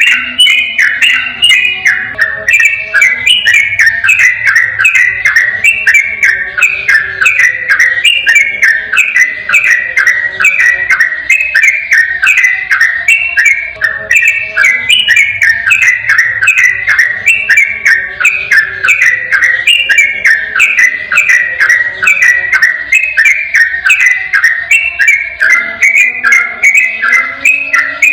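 Sooty-headed bulbul (trucukan) singing a continuous 'ropel' song: a fast, unbroken stream of short chirping notes in repeated phrases that fall in pitch, with no pauses.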